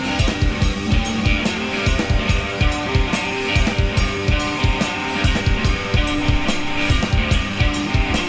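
Live recording of a noise rock band playing: a drum kit keeps a steady, busy beat of kick and cymbal hits under held electric guitar notes. The recording has no bass track.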